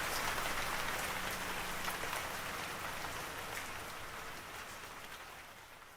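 Steady rain falling, a dense hiss with scattered drop patters, fading out gradually to silence.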